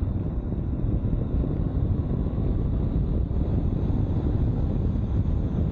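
Steady low rumble of wind and riding noise from a 2022 Honda CB500X motorcycle on the move, picked up by a microphone mounted inside the rider's helmet.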